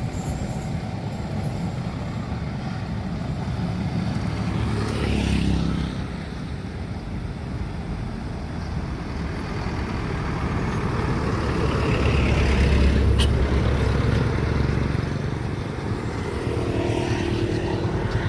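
Road vehicles driving past one after another, with a steady low rumble. One passes around 5 s in, and a louder, deeper one swells up around 12–14 s with a sharp click.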